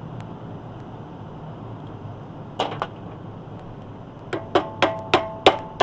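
A metal fan pulley being tapped along the motor shaft to align it: two light taps, then from about four seconds in a run of sharper ringing metallic taps, about three a second. A steady low hum runs underneath.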